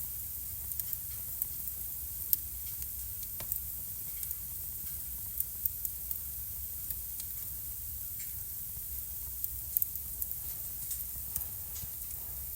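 Wood fire burning in a fireplace: a steady hiss with irregular sharp crackles and pops, the loudest about two seconds in and again near ten seconds.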